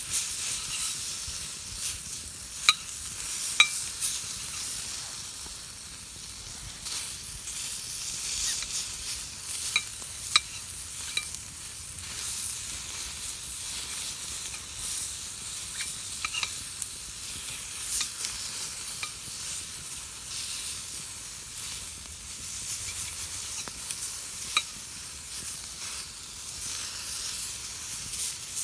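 Steady hissing and sizzling over a driftwood campfire, with scattered sharp crackles and pops.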